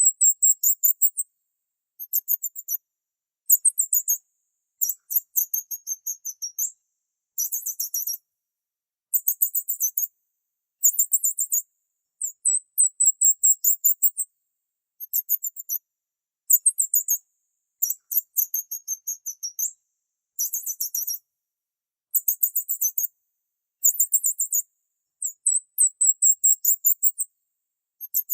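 Small bird chirping in short bursts of rapid, very high-pitched notes, about one burst every second or two, with silence between.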